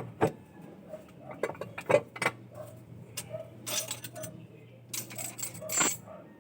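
Irregular metallic clicks and clinks, with a couple of short scraping bursts, over a low steady hum: tools and metal parts being handled during engine work.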